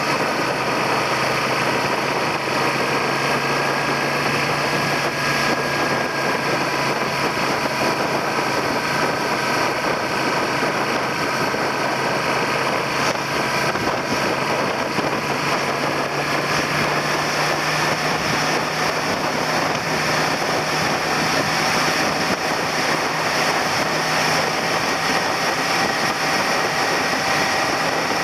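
Suzuki SV400's V-twin engine running steadily under a constant haze of wind and road noise, as heard from a camera mounted on the handlebar. The engine note holds fairly even, drifting only slightly in pitch.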